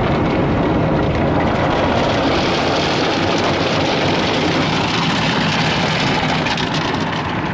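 MacNeil car wash tunnel equipment working over a pickup truck, heard from inside the cab: a loud, steady wash of brushes and water spray that grows brighter and hissier in the middle.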